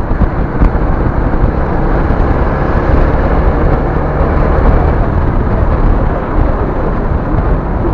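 Steady car driving noise (tyre, wind and engine rumble) picked up by a dashcam's microphone, loud and heavy in the low end.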